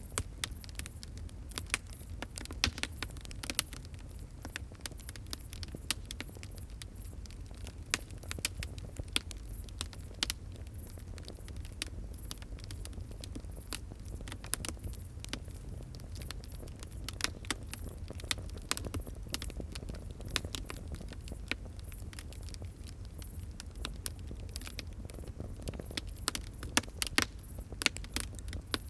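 Wood fire crackling and popping, with many irregular sharp snaps over a steady low rumble of the flames.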